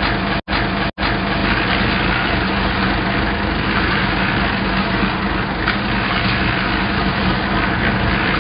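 Combine harvester engine running steadily. The sound breaks off for an instant a few times in the first second.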